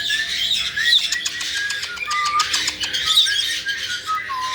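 Several caique parrots chirping and whistling, many short calls overlapping, with a few sharp clicks in between.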